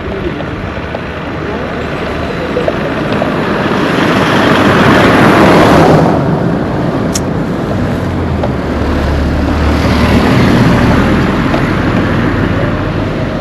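A motor vehicle passing close by on the street: its noise swells to a peak about five seconds in, then fades into general road noise.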